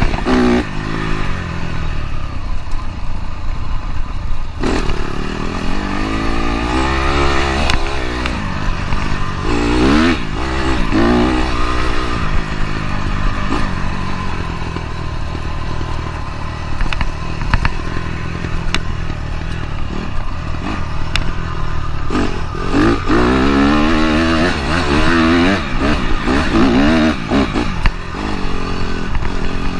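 Dirt bike engine being ridden hard, its pitch rising and falling again and again as it accelerates and changes gear.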